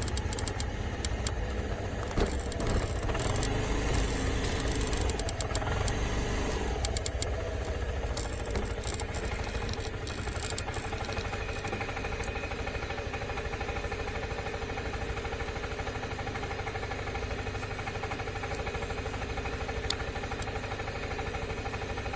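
Suzuki Skywave Type M 250 scooter's single-cylinder engine running. Its pitch falls about seven seconds in, then holds steady.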